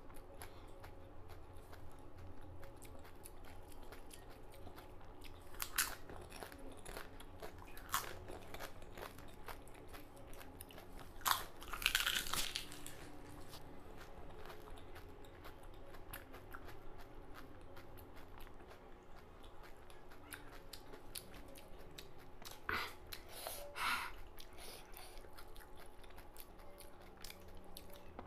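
Close-miked chewing of pani puri: the crisp fried puri shells crunching between the teeth in a steady run of small crackles and mouth noises, with a few louder crunches spread through.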